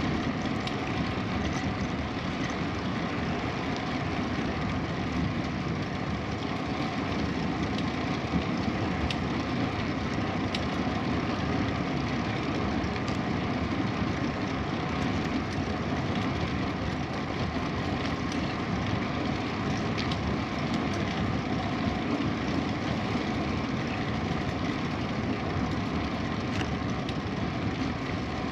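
Steady rushing noise of a bicycle being ridden, with the tyres rolling on the path and a few faint ticks.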